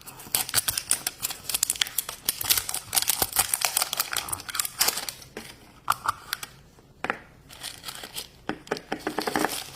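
Toy packaging being crinkled and torn open by hand, a dense run of crackling for several seconds, a pause, then more crinkling near the end.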